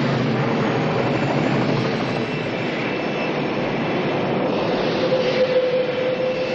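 Aircraft engines droning steadily in flight, a dense noise with a constant hum.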